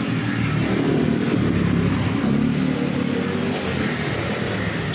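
Steady motor vehicle engine noise, like a motorcycle running, with no single distinct event.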